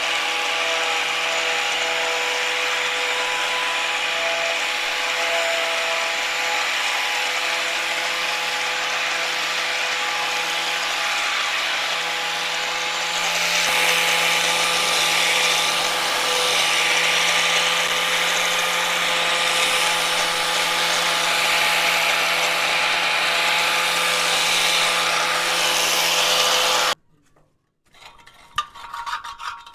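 Electric power tool running steadily against metal for a long stretch, with a constant hum and a rough grinding hiss, then cutting off suddenly. Near the end come a few quick scraping strokes.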